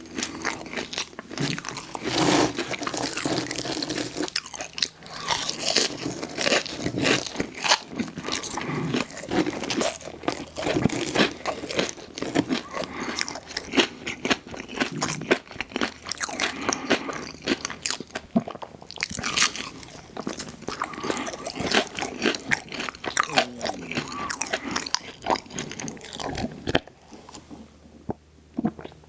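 Close-miked eating: a rapid, irregular run of crunchy bites and wet chewing of fast food, dying down near the end.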